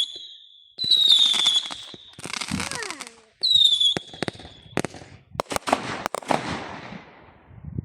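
Fireworks: high whistles that fall slightly in pitch, one about a second in and another about three and a half seconds in, followed by a quick run of sharp bangs and crackling.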